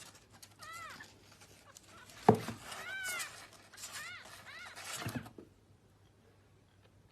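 A cat meowing, about four short calls that rise and fall in pitch, with one sharp knock about two seconds in.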